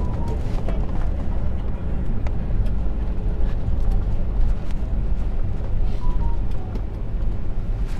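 Steady, loud low rumble of an airliner heard inside the passenger cabin just after touchdown, as it rolls out on the runway.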